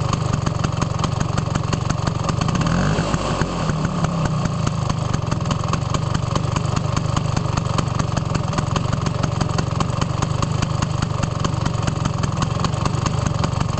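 Vespa PX200's single-cylinder two-stroke engine running at idle through its standard exhaust, a steady rapid popping beat, with a brief change in its note about three seconds in.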